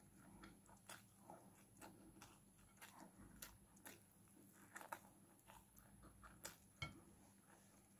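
Faint close-up chewing and wet mouth clicks of a person eating chicken and rice by hand, in an irregular run of soft smacks with a sharper click near the end.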